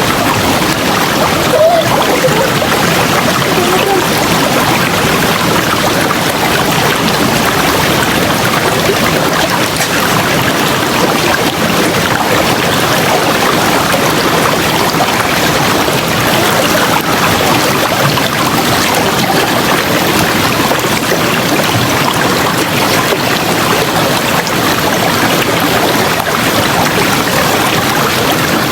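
River water running over rocks, a steady full rushing sound with no pauses.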